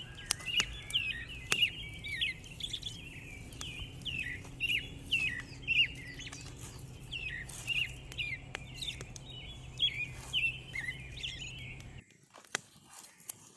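Birds chirping over and over, several short hooked calls a second, with scattered sharp clicks over a low steady hum. About twelve seconds in, the chirping and hum cut off abruptly and only faint clicks remain.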